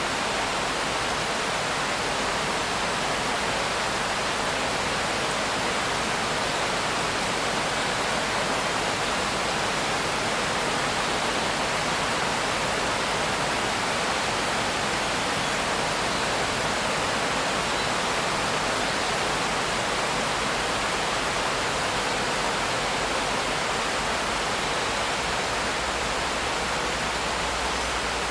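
Steady rain as an even hiss, with no separate drops or gusts standing out.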